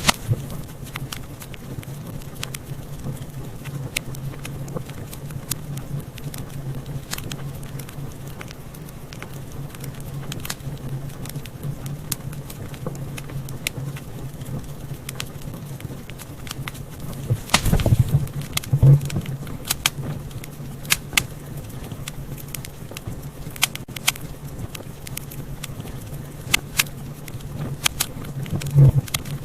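Wood fire in a fireplace crackling, with scattered sharp pops over a steady low rumble of the flames. The pops bunch up louder about two-thirds of the way through and again near the end.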